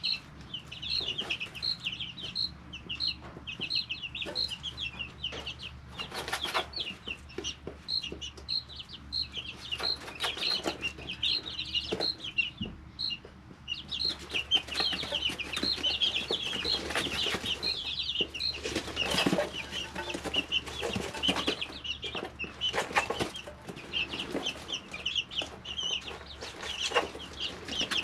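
A brooder of three-week-old chicks peeping constantly, many short high peeps overlapping one another, with brief scratchy rustles now and then.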